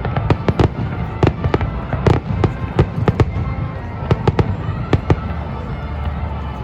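Fireworks going off: a rapid, irregular string of sharp bangs and crackles that thins out after about five seconds.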